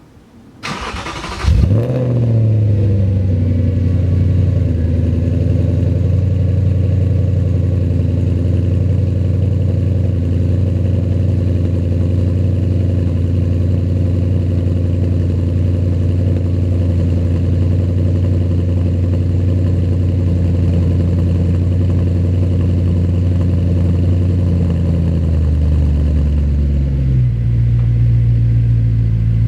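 Audi B7 RS4's 4.2-litre V8 cold-started through a Milltek exhaust and JHM downpipes: the starter cranks for about a second, the engine catches with a sudden jump in loudness, then holds a steady fast cold idle. About 25 seconds in the idle steps down lower as it settles.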